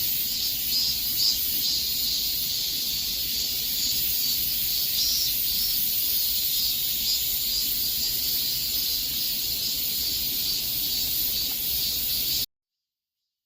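Cicadas chorusing: a dense, steady high-pitched buzz with a faint pulsing, which cuts off suddenly near the end, leaving silence.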